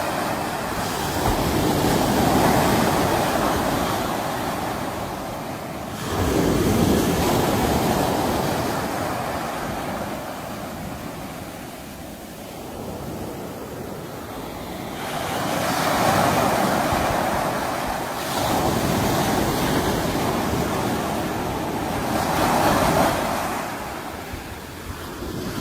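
Sea waves surging and breaking, each swell rising in a rush of surf and then ebbing, about five times.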